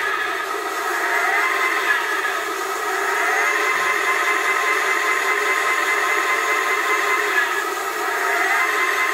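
Heng Long 1/16 RC tank's TK22 sound unit playing a simulated tank engine through its small onboard speaker, thin and without deep bass, its pitch shifting briefly near the start and again near the end.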